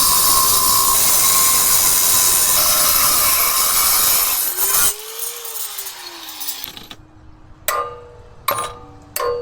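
A power tool cutting or grinding metal pipe, steady and loud, stopping about four and a half seconds in. A whine then rises and falls, and near the end come a few sharp ringing clinks, each a second or less apart.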